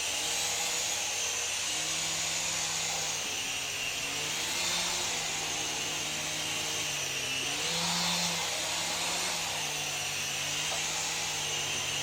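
Syma S107 mini coaxial RC helicopter in flight: its small electric motors whine and the rotors buzz. The pitch drifts up and down a little as the throttle is worked.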